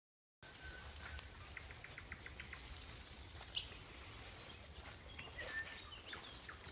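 Faint outdoor birdsong starts after a moment of silence: small birds chirping, one giving a quick run of evenly spaced notes, about six a second. A low rumble lies underneath.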